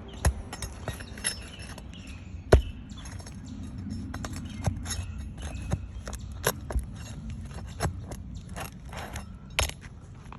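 Irregular clicks, knocks and scrapes of work on a shingle roof: footsteps on the shingles and a tool prying at shingles and nails, with one sharp knock about two and a half seconds in.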